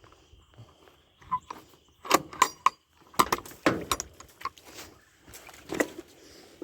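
Irregular series of sharp knocks and metallic clinks, a few of them ringing briefly, like metal hardware being handled.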